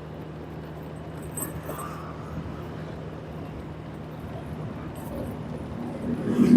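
Vehicle engine running with a steady low hum in traffic, swelling louder in the last second.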